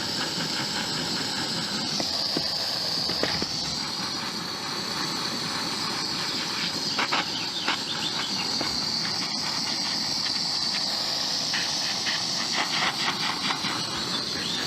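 Butane torch flame hissing steadily while heating adhesive-lined heat shrink tubing over a crimped battery cable lug, with scattered small ticks.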